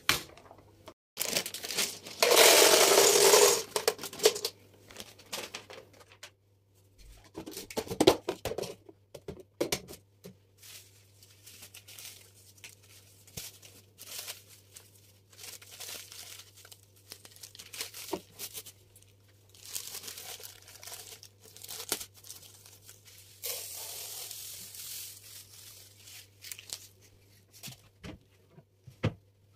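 Food packaging torn open and crinkled in handling, loudest in a burst lasting a few seconds near the start and in two shorter bursts later, with small knocks and clicks between.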